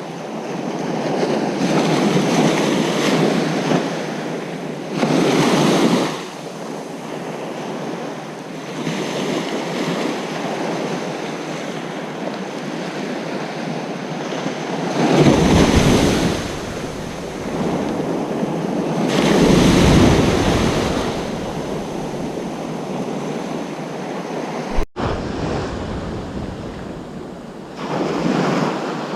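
Ocean surf on a beach: a continuous wash of waves with several louder breakers swelling and fading, two of them heavy and deep. The sound drops out for an instant a little before the end.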